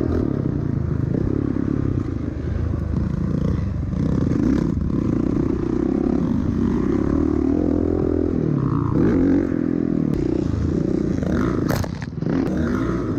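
Dirt bike engine being ridden hard, its pitch rising and falling again and again as the throttle is opened and closed, with some clattering; a couple of sharp clicks near the end.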